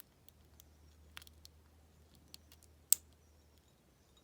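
Scattered faint metal clicks of a lock pick and tension wrench working the pins inside a padlock, with one sharp click about three seconds in.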